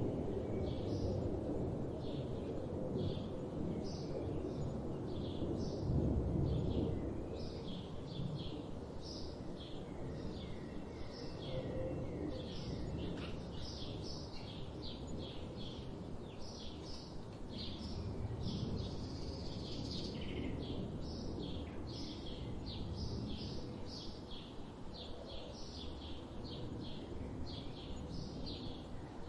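Birds singing and chirping, with many short high notes several times a second, over a steady low rumble of background noise.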